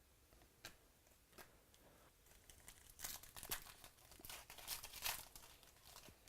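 Crinkling and tearing of a trading-card pack's foil wrapper being opened. It starts with a few light clicks and builds to a dense crackle from about three seconds in until about a second before the end.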